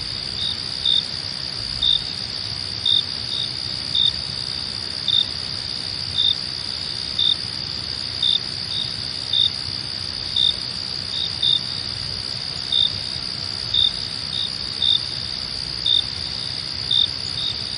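Crickets singing at night: a steady high trill with louder short chirps about once a second, sometimes in quick pairs.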